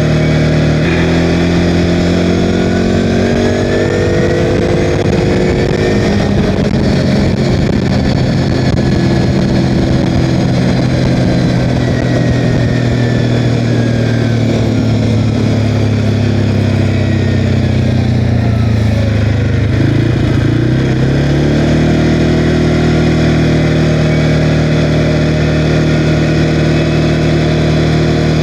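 CFMOTO Cforce 520L ATV's single-cylinder engine running under way. Its pitch steps up about a second in, slowly falls through the middle as it eases off, then rises again about two-thirds of the way through as it speeds up.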